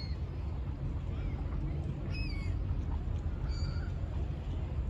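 Three short bird calls, spaced a second or two apart, over a steady low rumble.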